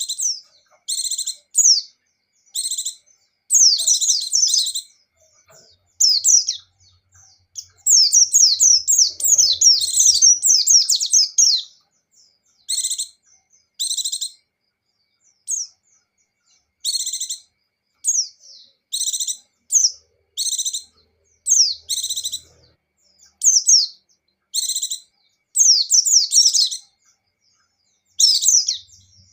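White-eye (pleci) singing: short, high, rapid twittering phrases repeated every second or two, with one longer unbroken run lasting a few seconds near the middle.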